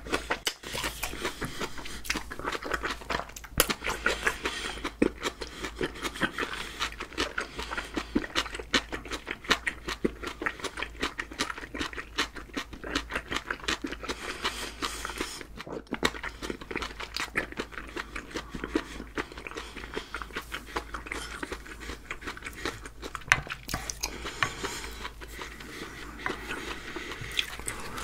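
A person chewing a mouthful of seasoned greens close to the microphone: a dense, continuous run of short mouth clicks, several a second.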